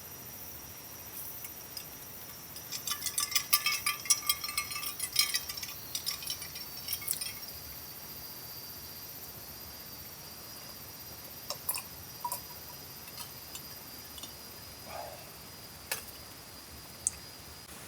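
Clinking and jingling of small hard objects: a quick run of light metallic or glassy clicks for about five seconds, then a few single clinks.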